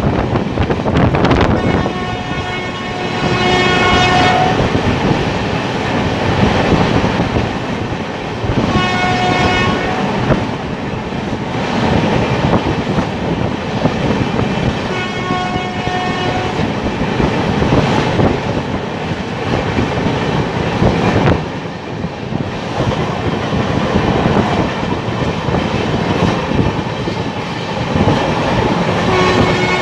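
Express passenger train running at speed, a loud steady rumble and rattle of the coaches on the track. A train horn sounds three times over it: a blast of about two seconds near the start, shorter blasts about nine and fifteen seconds in, and another that begins at the very end.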